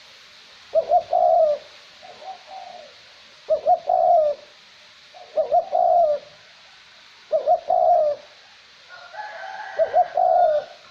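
Male dove cooing, a short coo phrase repeated roughly every two seconds over a faint steady hiss of light wind. It is a standard male decoy call, used to lure wild doves.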